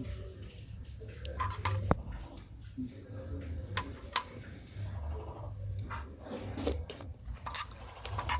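Close-miked mouth sounds of a person eating noodles, with wet chewing and a few sharp clicks, two of them standing out about two and four seconds in.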